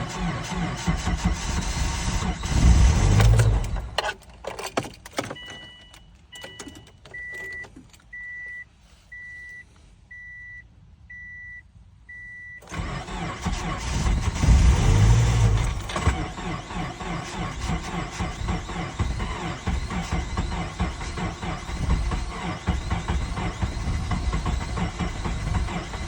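2007 Subaru Forester 2.5XS's starter cranking its 2.5-litre flat-four in extreme cold, a hard start. The cranking stops after about four seconds, a few clicks follow, and a warning chime beeps about once a second. Then cranking resumes with a loud surge about fifteen seconds in and keeps going steadily.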